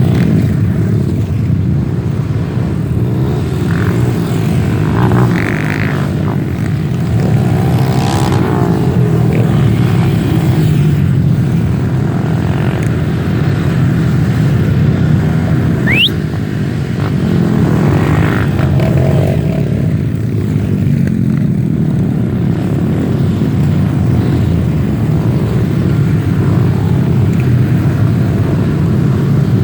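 Off-road motorcycle engines running steadily, with a brief rising whistle about halfway through.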